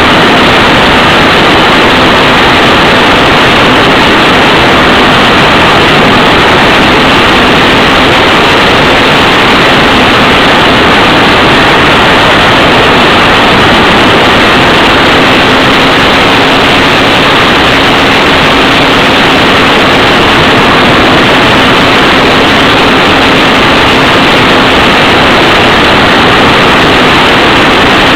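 ParkZone F4U Corsair electric RC model plane in flight: a steady, loud rush of wind and motor and propeller noise, with a faint steady hum underneath.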